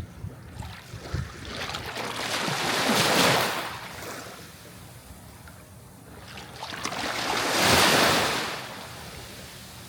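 Sea waves breaking on a shore: two waves swell in and wash out, the first peaking about three seconds in and the second near eight seconds, with a softer hiss of water between them.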